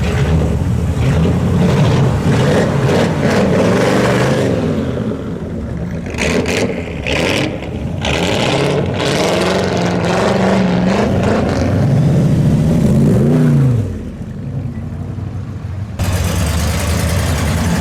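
Car engines revving and accelerating away, their pitch rising and falling, with one sharp rev up and back down near the end.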